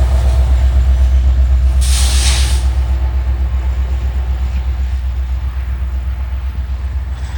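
CPKC freight train of ethanol tank cars rolling past with a deep, pulsing rumble that slowly fades. A short hiss comes about two seconds in.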